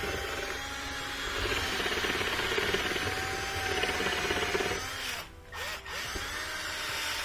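Vent-cleaning brush scraping and rubbing inside a dryer vent tube, loosening lint and dirt. It runs steadily, breaks off for a moment about five seconds in, then starts again.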